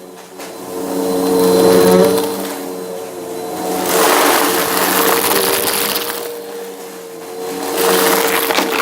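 Bissell vacuum cleaner running with its brushroll crunching through debris, a steady motor hum under a crunch that swells three times, about every three to four seconds, with each push.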